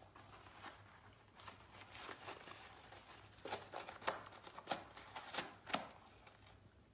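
Faint, irregular clicks and light rustling in a small room, a few scattered taps at first, then a busier run of sharper clicks from about three seconds in.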